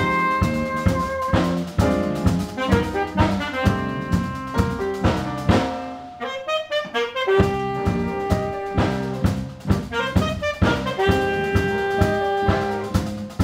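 Jazz quartet playing live: saxophone lead over piano, bass and drum kit. There is a brief lull about six seconds in, then long held notes.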